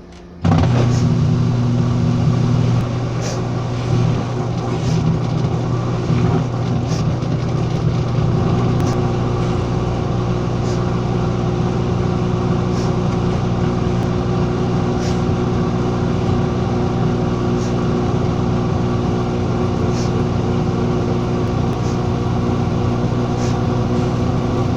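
A motor-driven machine switches on abruptly about half a second in and runs with a steady, loud hum, with a faint tick about every two seconds.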